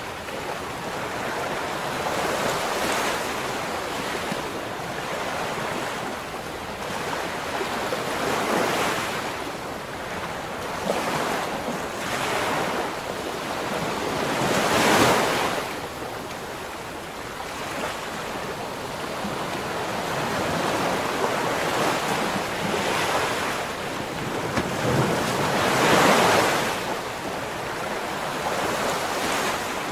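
Ocean waves breaking on the shore: continuous surf that swells and falls back every few seconds, with the loudest breakers about halfway through and again near the end.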